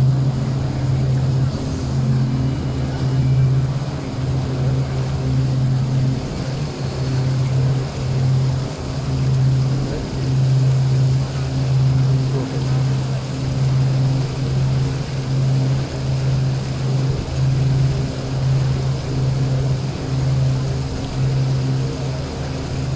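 Boat engine running steadily: a low hum that rises and falls every second or so, with some water and wind noise under it.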